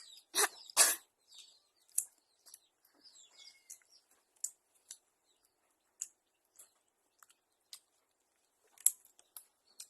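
Rambutan being peeled and eaten: two loud noisy bursts about half a second in, then scattered short clicks and mouth smacks.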